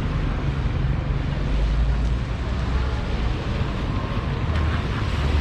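Steady low rumble of city street traffic, with wind on the microphone.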